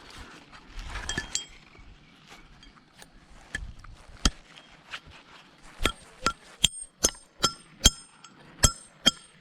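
Sharp metallic clinks, each with a brief ringing tone, as of metal being struck. A few are scattered at first, then about halfway through they settle into a steady run of about two and a half strikes a second.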